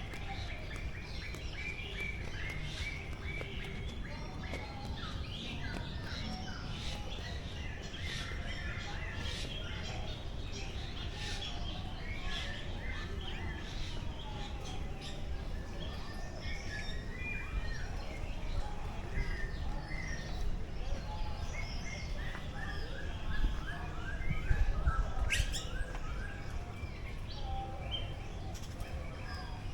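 Many birds chirping and calling together in a dense mix of short tweets, over a steady low rumble. The rumble swells about three-quarters of the way in, and just after that there is one quick, sharp rising call.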